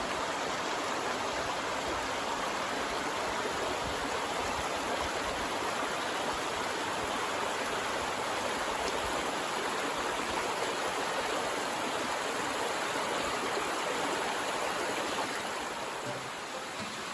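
Small stream babbling steadily, easing slightly in level near the end.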